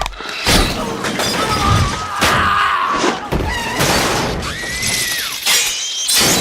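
Film action sound effects: repeated crashes and glass shattering, with high screeching sounds rising and falling over them, as Doctor Octopus's mechanical arms smash up an operating room.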